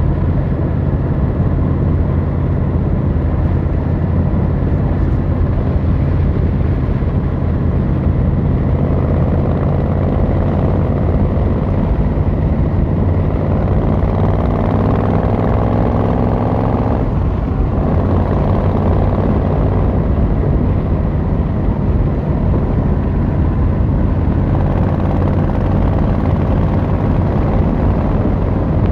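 Yamaha XVZ1300 Royal Star's V4 engine and exhaust under way on a ride. The engine note climbs steadily for several seconds as it accelerates, drops sharply about halfway through, then runs on steadily.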